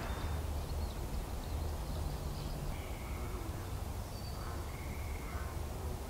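Birds calling in short, thin whistled notes, one every couple of seconds, over a steady low rumble.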